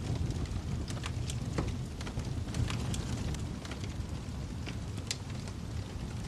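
Wood fire burning in a fireplace: a steady low rumble of flames with irregular sharp crackles and pops, a few a second, one louder pop about five seconds in.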